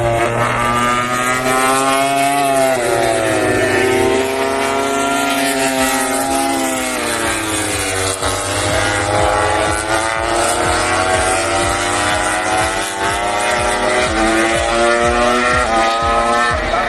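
Grand Prix racing motorcycles running at speed, their four-stroke engines rising and falling in pitch as they accelerate, shift gear and brake. Near the end there is a rapid run of low pops as a bike slows.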